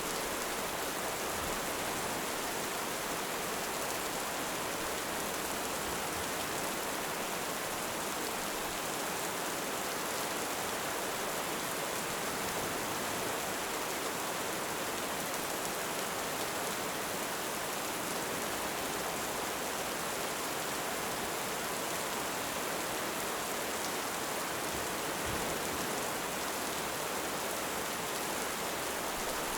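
Heavy rain falling in a steady, even hiss, with no thunder or rise and fall.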